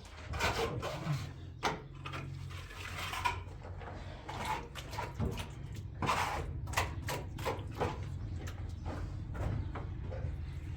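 Scattered knocks, taps and scraping of hands and tools working on an installation, clustered most densely from about six to eight seconds in, over a steady low hum.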